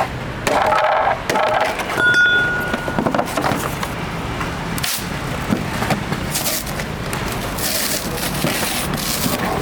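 Scraping, cracking and knocking as a refrigerator door's sheet-metal skin and foam insulation are broken apart, with a sharp click about five seconds in.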